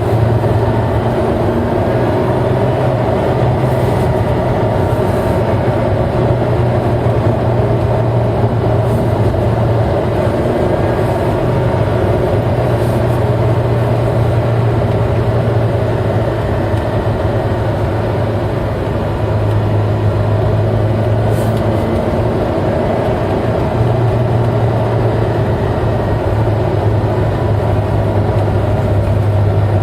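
V8 car engine running steadily in fifth gear: a low, even drone that holds much the same pitch throughout.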